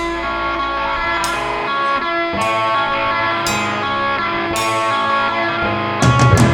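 Rock band playing an instrumental passage: guitar chords are struck about once a second and left to ring. Drums and a heavier low end come in near the end.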